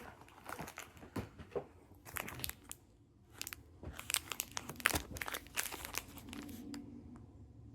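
Crinkly plastic wrapper of a chewy granola bar being handled and torn open: irregular crinkles and sharp snaps.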